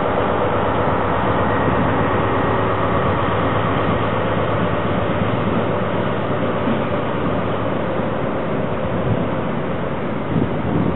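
Train at a station platform: steady running noise with several faint steady whining tones, easing off slightly near the end.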